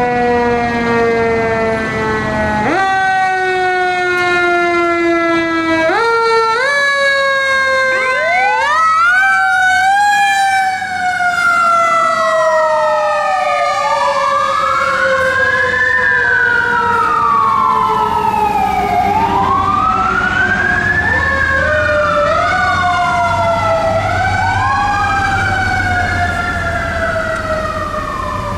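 Fire apparatus sirens while responding. A siren winds down in long falling tones and is spun back up several times. From about eight seconds in, an electronic wail sweeps up and down about every five to six seconds over it.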